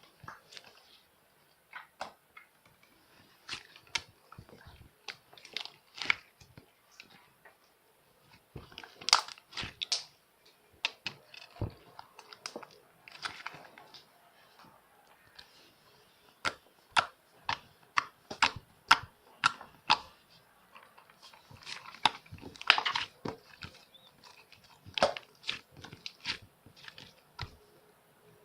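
Plastic bag (bongji) crinkling and rustling in irregular bursts as it is handled and torn open, with scattered sharp clicks.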